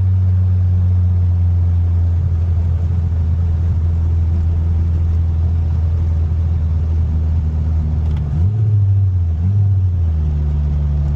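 A 1995 Mitsubishi Eclipse GSX's turbocharged 4G63 four-cylinder engine running steadily while driving. About eight seconds in, the engine note dips and changes pitch through a gear change.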